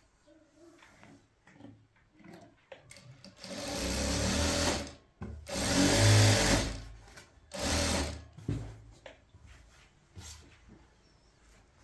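A small motorised machine running in three short bursts of about a second each, with light clicks and knocks between them.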